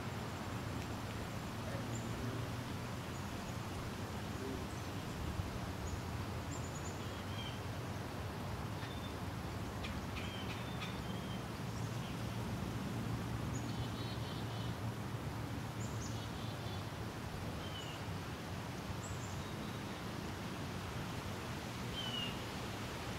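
Steady outdoor background hiss with a low hum, and faint, short, high chirps from small birds scattered through it.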